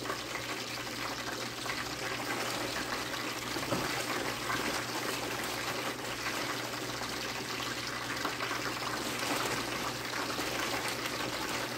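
Chicken frying in hot oil in a lidded pot: a steady sizzle with faint crackles.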